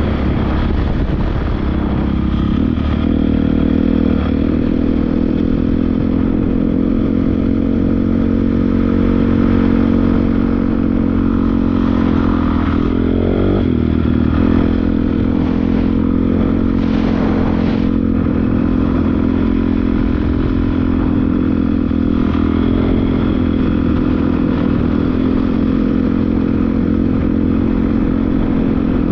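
Honda CRF450R dirt bike's single-cylinder four-stroke engine running steadily under way, with one brief drop and rise in revs about halfway through.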